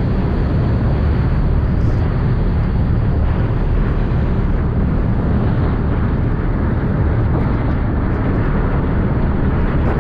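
Steady, loud low rumble aboard a moving ferry: wind blowing across the microphone mixed with the ferry's engine noise.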